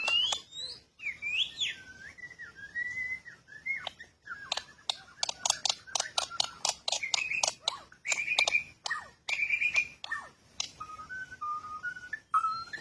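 Bird-like whistled calls sliding up and down in pitch, mixed with many rapid sharp chips, used to lure birds. Near the end the whistles turn into a run of short, steadier notes.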